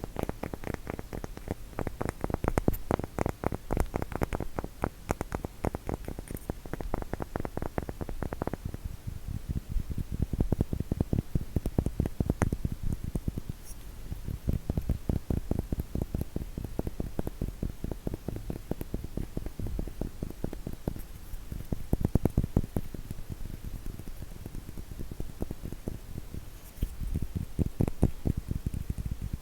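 Fast tapping on a wooden block, many light taps a second in long runs with a few brief pauses.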